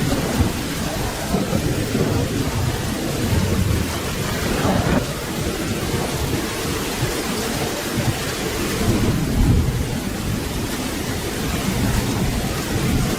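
Steady rain hissing, with low rumbling thunder underneath that swells twice, about a third of the way in and again past the middle.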